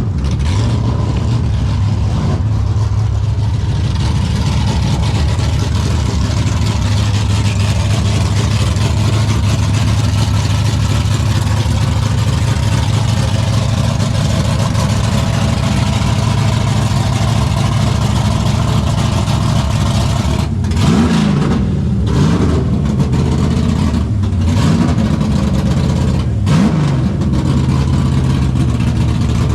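Car engines running steadily, with a few quick revs, each rising and falling in pitch, in the last third.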